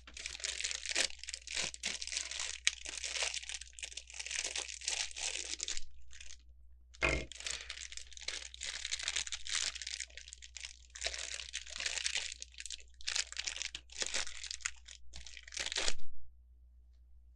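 Plastic bags of Lego pieces crinkling and rustling as they are handled, in irregular bursts with a short pause about six seconds in.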